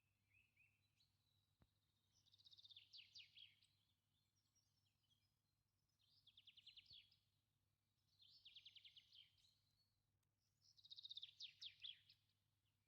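Faint birdsong: a small bird repeating a short, rapid trilled phrase four times, every two to three seconds.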